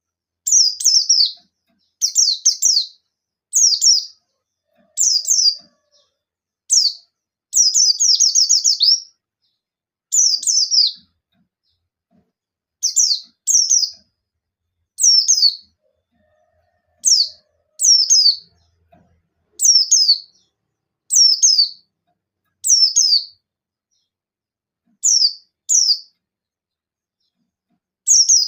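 A buxtoni-type white-eye (pleci) giving its rapid 'nembak' chirping calls: short, high, downward-sweeping bursts repeated every second or two with silent gaps between them, and one longer rapid run about eight seconds in. These are the challenging calls of a bird in full song, aimed at a rival.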